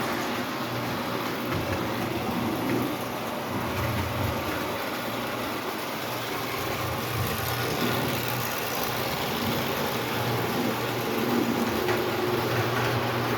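Ives standard gauge 0-4-0 electric toy locomotive running steadily around three-rail track with its coaches: a continuous hum of the motor and gears over the rumble of metal wheels on the rails.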